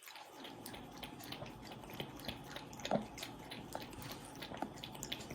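Cat lapping milk: a quiet, irregular run of small wet clicks from its tongue.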